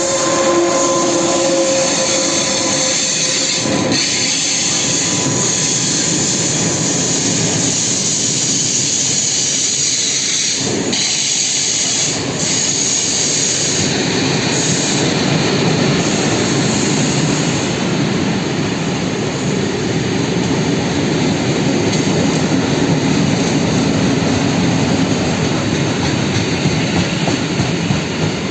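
Loaded freight train of coal gondola wagons rolling past with a steady, loud noise of wheels on rail. A few steady tones sound in the first three seconds.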